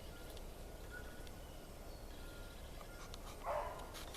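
Rabbit hounds baying faintly in the distance while running a rabbit, with one louder bay about three and a half seconds in.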